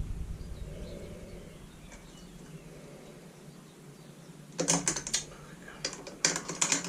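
Light clicks and taps of a screwdriver and screw against the plastic recoil starter housing of an Echo backpack leaf blower, as a screw is worked back into place. The clicks come in two short clusters, one about four and a half seconds in and another near the end.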